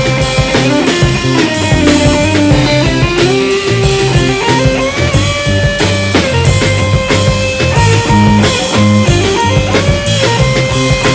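Rock band playing live without vocals: a guitar plays a melodic lead line with held and bent notes over a steady drum kit beat and a moving bass line.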